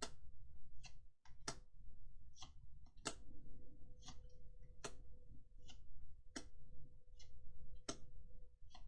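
Trading cards being handled and flicked through one by one, each card giving a short, sharp click, about one a second at uneven spacing.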